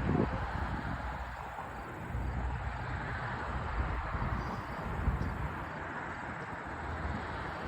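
Steady outdoor background noise with a low rumble, like distant traffic or wind on the microphone, with a few soft bumps.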